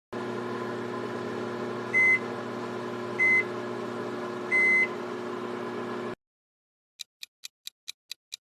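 Microwave oven running with a steady hum, with three beeps about a second and a half apart, the last one longer. The hum cuts off suddenly about six seconds in.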